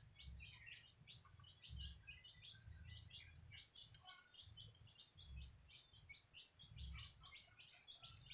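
Faint, rapid chirping of small birds, many short chirps with hardly a pause, over a low rumble that swells and fades about once a second.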